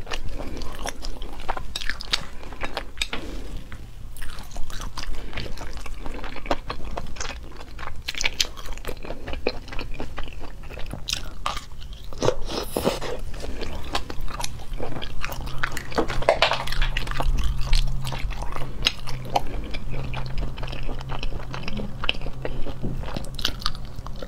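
Close-miked mouth sounds of a person biting into and chewing sauce-coated shellfish meat: a dense, irregular run of wet clicks and crunchy crackles.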